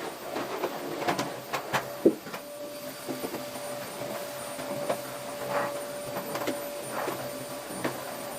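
Household objects being handled during cleaning: scattered light knocks and clicks, with one sharper knock about two seconds in, over a steady machine hum with a faint tone.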